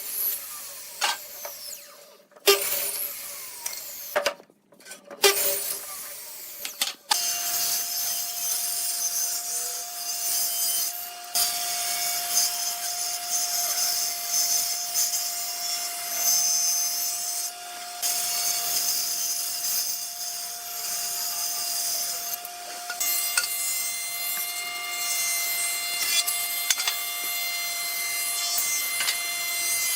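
Woodworking tools on wood: a few knocks and short bursts of work at first. Then, about seven seconds in, a power tool starts and runs steadily on the wood with a constant whine.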